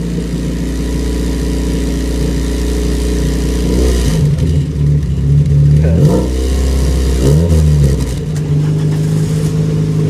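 VW Mk1 Golf four-cylinder engine idling steadily just after a start, with three short throttle blips about four, six and seven and a half seconds in, each rising and falling back to idle.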